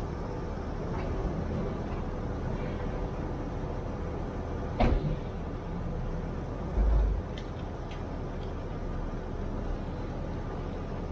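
Jeep Wrangler's engine running at low speed as it crawls through deep mud ruts, a steady low rumble. A sharp knock about five seconds in and a dull thump about two seconds later stand out above it.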